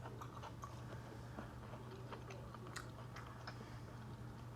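Close-miked chewing of food, soft and wet with scattered small mouth clicks.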